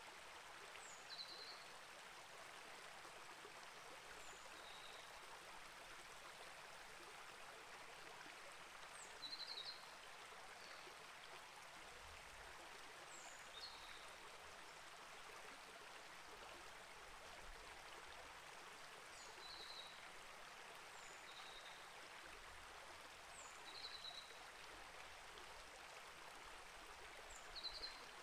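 Small rainforest creek flowing steadily as a faint, even rush of water. A bird gives short high chirps every four seconds or so.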